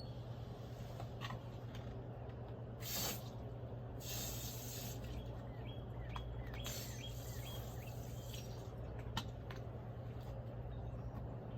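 A few short hisses, the longest lasting about a second, over a steady low hum. Small birds chirp in short repeated calls partway through, and there are a few light clicks.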